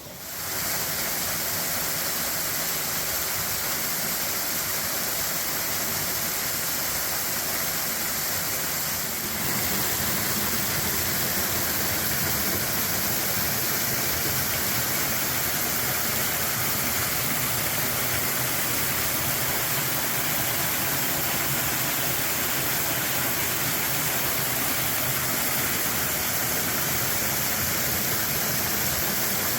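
Upper Devil Creek Falls, a waterfall running with good flow into a rock-shelter pool: a steady rush of falling water. About nine seconds in it grows slightly louder and fuller.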